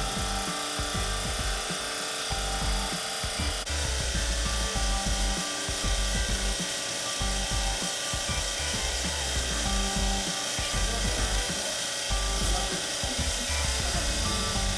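Repeated rubbing or scrubbing strokes over a steady mechanical hum and hiss, typical of cleaning work on an air conditioner.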